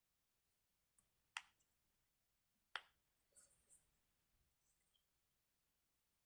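Silicone push-pop fidget bubbles being pressed: two sharp pops about a second and a half apart, then a couple of much fainter ones.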